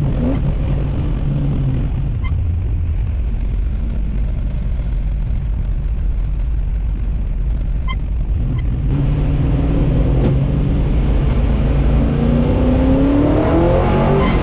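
Small-block Chevy V8 in a 1964 Buick Special, heard from inside the car. It runs low and even at light throttle, gets louder about nine seconds in, and its pitch climbs near the end as the car accelerates.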